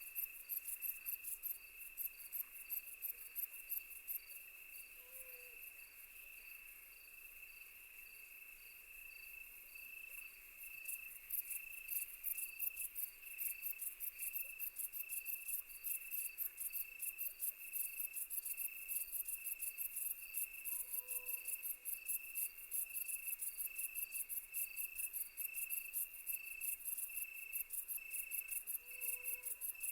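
Night chorus of crickets chirping rapidly and continuously, with a steady pulsing trill beneath them; it fades for a few seconds, then comes back stronger. Three short, faint low calls sound now and then.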